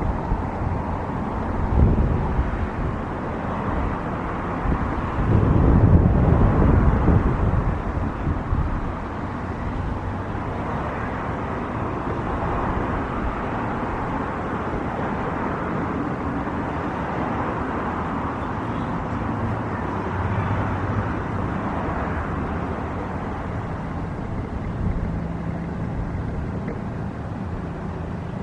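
Wind buffeting the microphone over a steady, distant engine rumble outdoors; the gusts ease off after about eight seconds, leaving the even engine noise.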